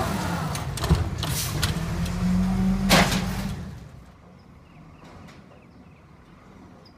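Garbage truck working at the curb: a steady mechanical hum with metal clanks and knocks, the loudest bang about three seconds in. The sound then falls away to faint background about four seconds in.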